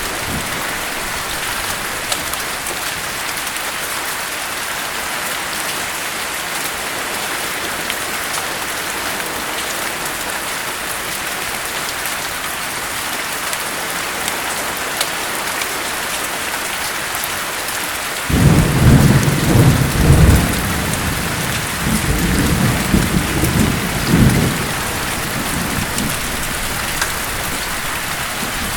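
Steady heavy rain, with a roll of thunder breaking in about two-thirds of the way through: a low rumble that comes in several surges over some seven seconds and then dies back under the rain.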